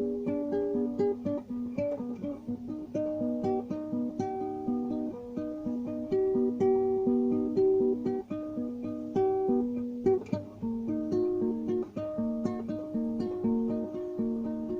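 Guitar played fingerstyle: a continuous melody of single plucked notes and light chords.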